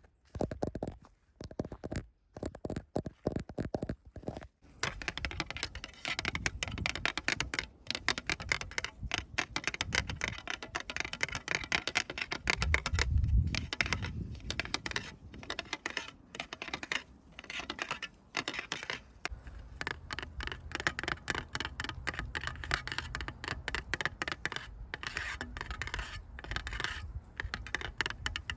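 Rapid, continuous scratching on a surface close to the microphone. The first few seconds are separate, softer strokes, and there is a low bump about thirteen seconds in.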